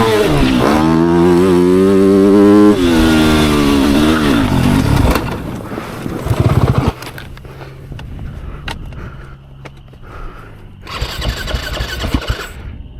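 Dirt bike engine revving up and down at close range, its pitch rising and falling, then dropping in pitch and fading out about five seconds in. A much quieter stretch follows, with a faint low hum and a brief hiss of noise near the end.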